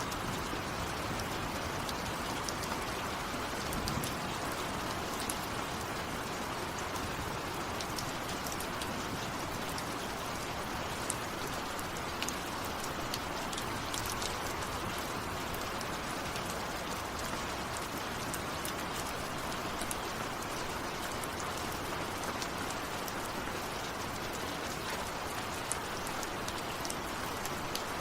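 Steady rainfall: an even hiss of rain with many sharp individual drop ticks over it.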